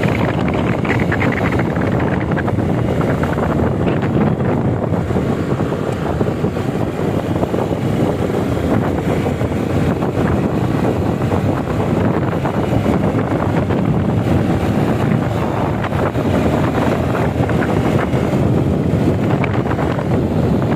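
Steady wind rushing over the microphone of a moving bike, with vehicle and road noise underneath.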